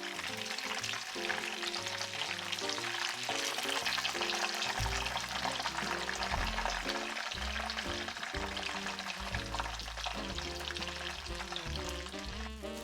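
Breadcrumbed chicken thighs for katsu frying in hot vegetable oil: a dense, steady crackling sizzle over background music. Near the end the sizzle drops away, leaving only the music.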